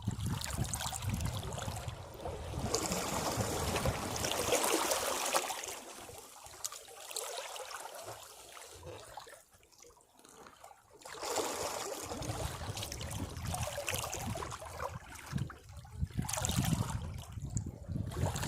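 Sea waves surging against rocks and washing back off them. Each surge rises into a low rumble with a hissing wash and then drains away. The sound nearly dies about ten seconds in, then builds into the next surge.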